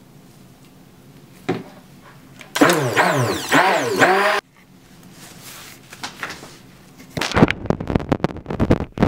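Small electric motor, an immersion stick blender, running for about two seconds with its pitch wavering up and down, then stopping abruptly. Near the end comes a quick run of knocks and clatters, as of tools working in a container.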